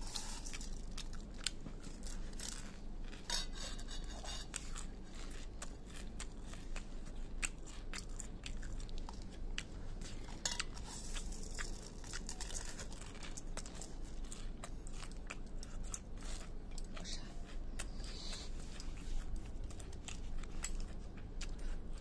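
Close-up crunching of dry puffed rice (muri): a person chewing mouthfuls of it, a dense run of small crisp crackles that goes on steadily, with the grains rustling in a steel bowl as they are handled.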